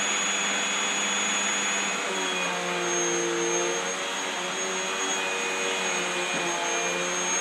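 Vacuum cleaner running steadily, its motor hum wavering slightly in pitch from about two seconds in.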